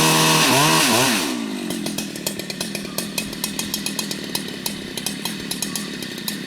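Husqvarna two-stroke chainsaw held at full throttle for about a second, then easing back to a lower, uneven running with rapid ticking.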